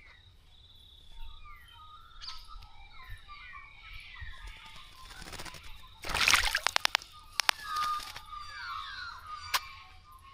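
Small birds bathing in a bird bath: a splash about six seconds in, then a quick run of wing-beats flicking water, with a few smaller splashes after. Small birds chirp throughout.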